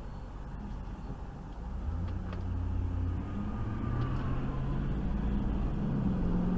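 Car engine and road noise: a low steady rumble that grows louder about two seconds in, the engine's pitch slowly rising.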